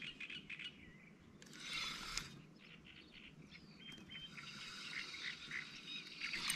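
Small birds chirping faintly in short scattered calls, with a brief hiss about a second and a half in.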